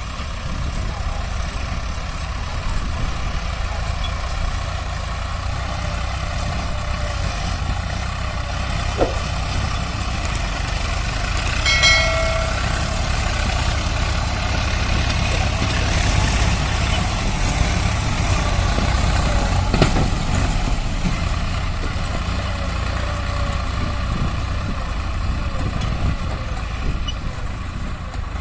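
Diesel farm tractor engine running steadily, a continuous low rumble. About twelve seconds in there is a brief high-pitched tone.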